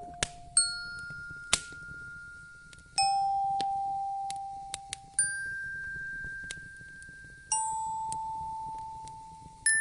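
Slow, single bell-like chime notes, one about every two seconds, each struck sharply and left to ring and fade, stepping between lower and higher pitches. Sparse crackles and pops from a wood fire in a fireplace sound underneath.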